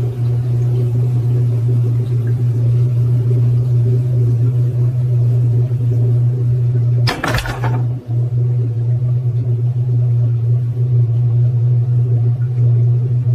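A steady, loud low drone or rumble. A brief burst of noise sweeps across it about seven seconds in.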